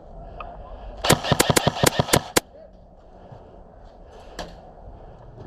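Airsoft gun firing a rapid string of about nine sharp shots, roughly seven a second, over just over a second. A single faint click follows near the end.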